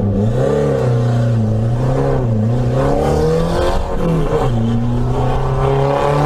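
Renault 5 Alpine Turbo's turbocharged four-cylinder engine heard from inside the cabin, pulling hard up a hill climb. The revs rise and fall, dip briefly about four seconds in, then climb steadily.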